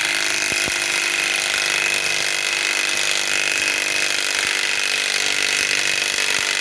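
Milwaukee M12 Fuel 3/8-inch stubby impact wrench (2554-20) hammering steadily as it drives a large lag bolt into hardwood. The tool is worked at what is called its absolute limit, overheating and cutting out under this load.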